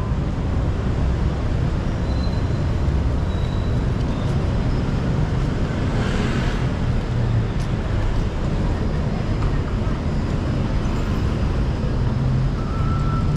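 Steady city street traffic noise, with vehicle engines running in slow, jammed traffic, and a brief hiss about halfway through.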